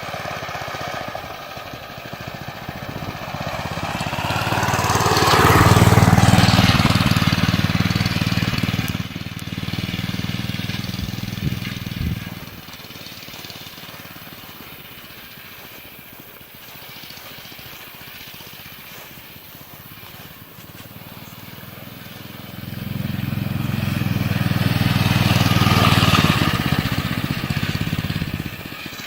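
Small engine of a homemade dirt bike running as it is ridden, swelling loud twice, about six seconds in and again near the end, and dropping back quieter in between.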